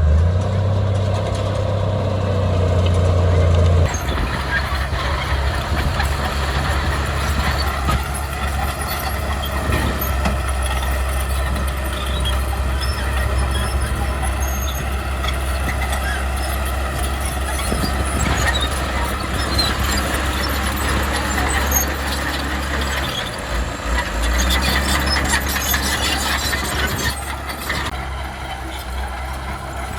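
Heavy diesel earthmoving machinery running: a steady low engine drone that drops suddenly to a lower pitch about four seconds in, with scattered faint high clicks and squeaks over it.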